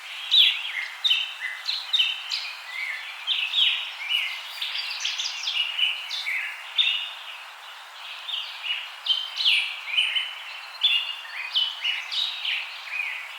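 A busy chorus of small birds chirping: many short, overlapping chirps and falling whistles, several a second, over a faint background hiss.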